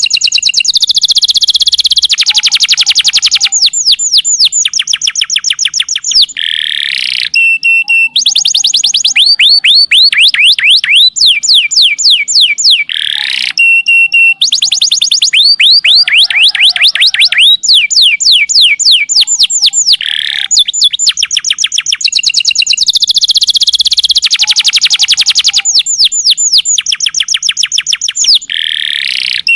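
Domestic canary singing a long, unbroken song of rapid trills. Each trill is a fast run of repeated notes, and the bird switches to a new trill every second or two.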